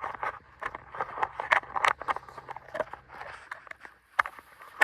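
Hands handling fishing bait and tackle close to the microphone: a quick, irregular run of small clicks and crackles.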